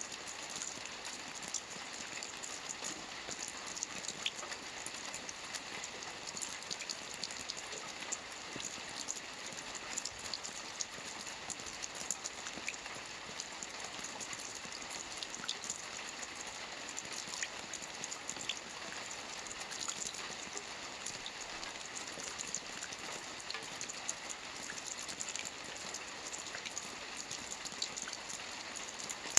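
Steady rain falling on a lake's water surface: an even hiss with many small drop ticks.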